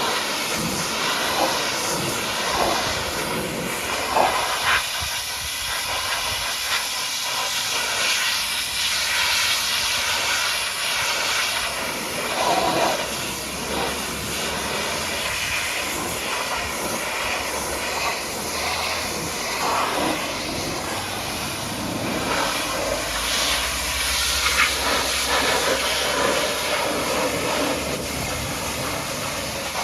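Pressure washer's high-pressure water jet spraying a muddy dump truck, a steady hiss that swells and eases a little as the spray moves.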